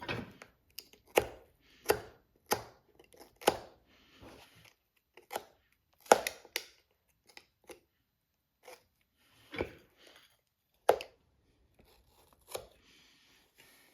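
Irregular sharp knocks and taps of hand tools working on a boot, with short scraping or tearing sounds between them, as the old sole construction is stripped off.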